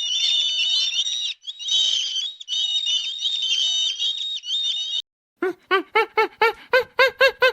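A dense chorus of high, overlapping chirps from many small birds. After a short break about five seconds in, a different animal gives a fast run of short rising-and-falling cries, about four a second, growing louder.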